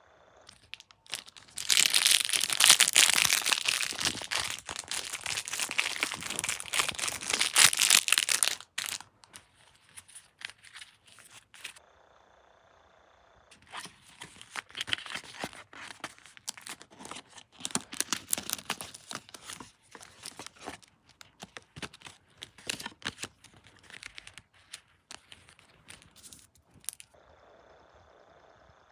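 Close-miked crinkling and tearing sounds. A loud, dense run of crackles lasts about seven seconds, then after a short pause a sparser stretch of crinkles and clicks goes on for about thirteen seconds.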